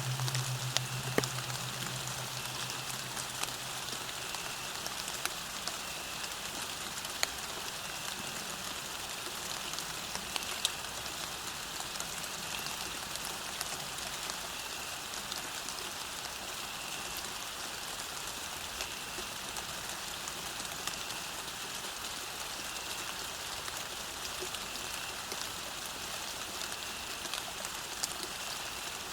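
Steady rain falling on a path: an even hiss with scattered sharp drop ticks. A low steady tone fades out over the first few seconds.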